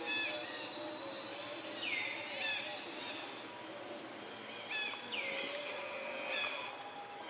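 Forest birds calling over a steady background hiss: one call, a sweep that drops and spreads out, repeats about every three seconds, with short whistled notes in between.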